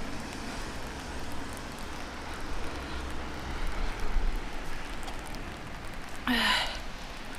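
Steady rain falling, with a low rumble underneath and a few faint drop ticks. About six seconds in, a brief vocal sound breaks in, like a short sigh.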